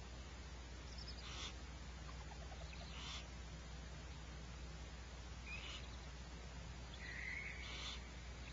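A few short, high animal calls, one every couple of seconds, the last held for about a second at a steady pitch, over a steady low hum.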